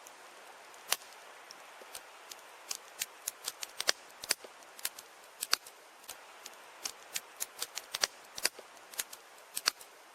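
Campfire crackling: irregular sharp pops and snaps over a soft hiss.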